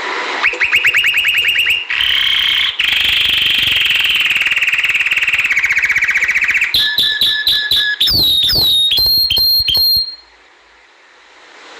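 Domestic canary singing: a fast trill, then a long rolling trill, then a run of sharp chirps and quick falling whistles.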